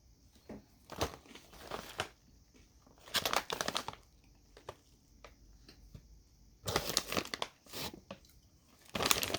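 Crunchy cinnamon raisin granola being handled and eaten: several short bursts of crisp crinkling and crunching, the longest about three seconds in and another about seven seconds in.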